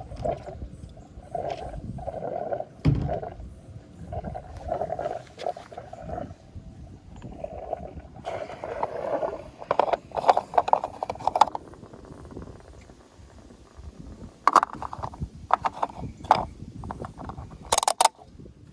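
Gurgling from a Toyota Echo's gas tank: irregular bubbling bursts that come and go, with a few sharper crackles in the second half.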